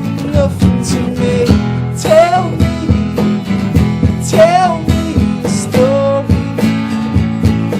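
Live band performing a song with strummed acoustic guitar and a voice singing long, wavering notes over the steady accompaniment.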